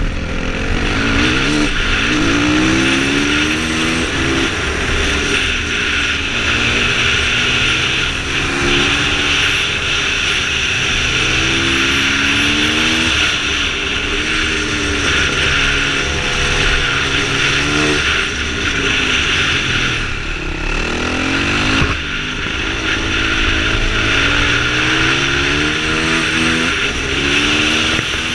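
Yamaha WR450F supermoto's single-cylinder four-stroke engine under hard acceleration, its pitch rising through each gear and dropping at the shifts and slowing for bends, with wind rushing over the helmet-mounted microphone.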